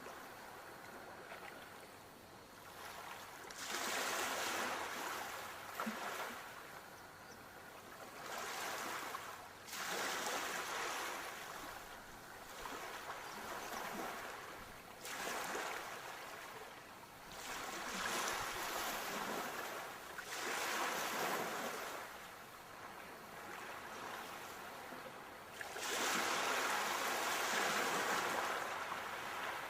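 Ocean waves breaking and washing up the shore, each surge swelling and fading every few seconds, the loudest one near the end.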